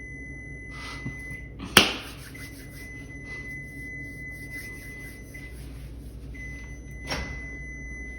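Microwave oven running: a steady low hum with a thin, steady high whine. There is a sharp click about two seconds in and a short noise about seven seconds in.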